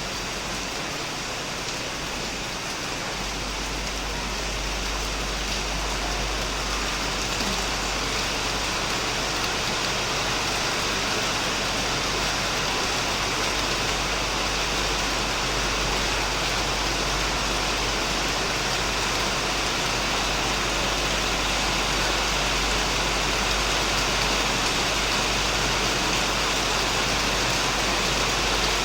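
Heavy, steady rain falling on a shed, a dense even hiss of drops that swells a little over the first few seconds.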